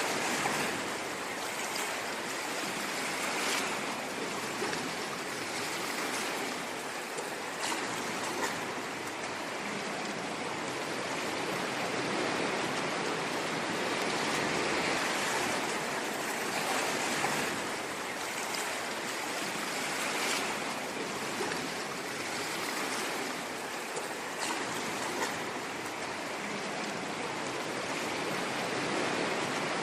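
Ocean surf washing: a steady, dense hiss of water that swells and eases slightly every few seconds.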